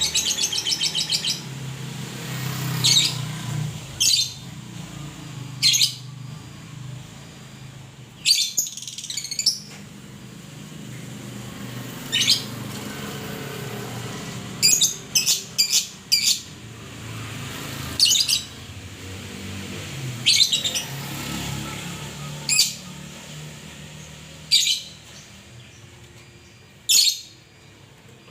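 Murai songbird giving short, sharp chirps and calls, one every second or two, some in quick runs of three or four. Under them runs a low steady hum.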